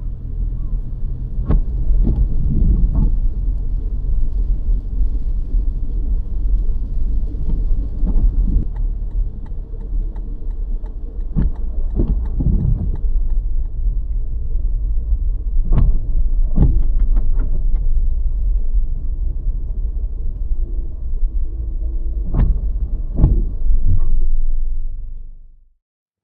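Vehicle driving noise: a loud, steady low rumble with scattered knocks and bumps, cutting off suddenly near the end.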